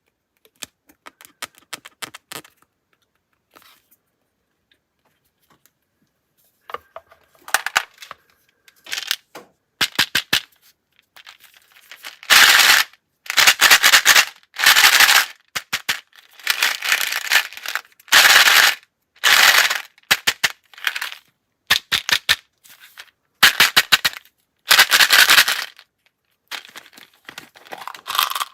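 Handling noise of small hard objects: scattered clicks at first, then from about twelve seconds in, repeated bursts of rapid rattling clatter, each lasting about half a second to a second.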